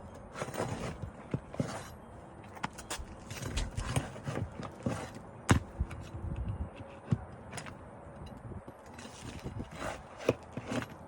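A 3-tab asphalt shingle being worked loose and pulled out of a roof: scraping and rustling with irregular sharp knocks and clicks, the loudest knock about halfway through.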